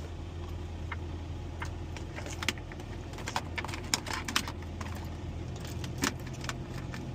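Steady low hum of an idling semi truck inside the cab, with scattered light clicks and rattles of small objects being handled, busiest in the middle.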